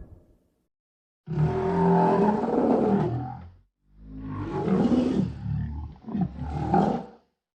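Designed monster-creature roar sound effect for a gorilla-giraffe hybrid beast: two deep growling roars, the second longer and breaking briefly near its end.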